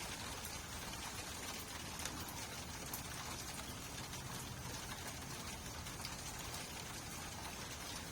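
Steady rainfall: an even hiss of falling rain with many fine drops ticking on a surface.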